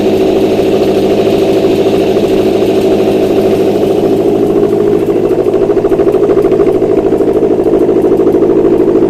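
Subaru EJ205 turbocharged 2.0-litre flat-four boxer engine running steadily on a test stand, idling at an even pitch.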